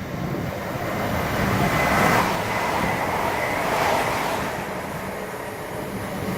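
A train running along the track, its noise swelling about two seconds in and again about four seconds in, with a thin high tone in the middle.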